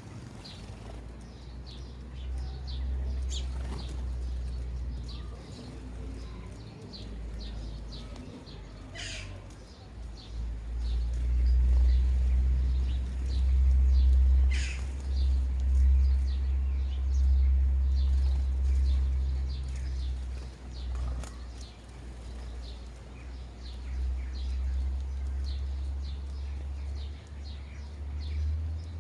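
Sparrows at bird feeders chirping over and over in short notes, with a couple of longer falling calls. A steady low rumble runs underneath and grows loudest around the middle.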